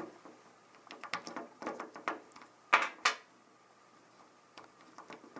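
Plastic clicks and knocks of small agitator dogs being pulled out and pressed into a top-load washer's agitator by hand, with two louder knocks a little past the middle.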